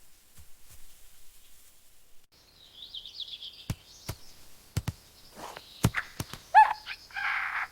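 Birds calling: a high warbling trill starts about two seconds in, followed by a few short, downward-arching call notes and a harsh, rasping call near the end. Several sharp knocks or clicks are scattered through the middle.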